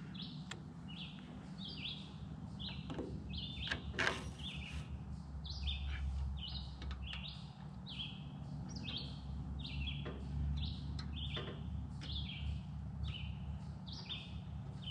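A bird chirping over and over, about two short chirps a second, with a few sharp clicks of metal parts being handled on the small engine, the loudest about four seconds in.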